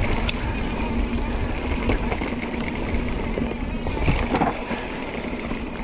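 Mountain bike descending a rough dirt trail: steady rumble of tyres and wind on the microphone, with scattered knocks and rattles from the bike, one cluster about four seconds in.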